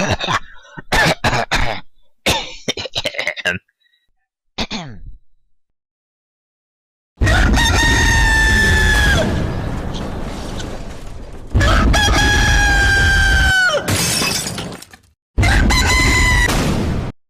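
A person's voice doing a loud imitation of a bird's crowing call: three long, high, steady calls, each about two seconds and dropping in pitch at the end, after a few short scuffling noises in the first seconds.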